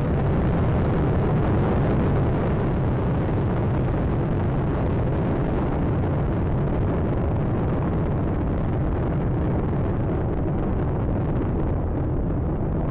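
Space Shuttle Atlantis's solid rocket boosters and three main engines in full ascent: a loud, steady, dense rumble. The higher part of the sound thins toward the end as the shuttle climbs away.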